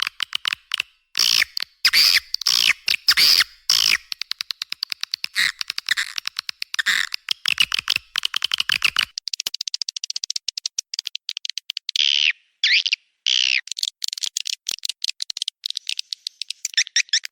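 Swiftlet lure recording of edible-nest swiftlet calls: fast chattering trills of clicks and chirps, with a few separate downward-sliding chirps near the end. It is a call track played in swiftlet houses to draw swiftlets in through the entrance hole.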